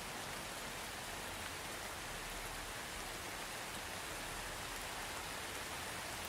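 Steady soft rain falling, an even patter of drops.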